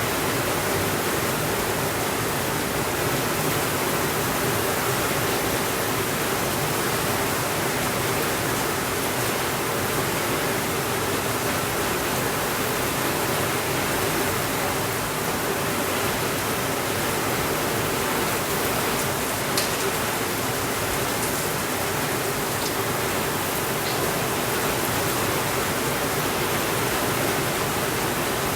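Steady rainfall, an even hiss with no breaks, with a few faint clicks about two-thirds of the way through.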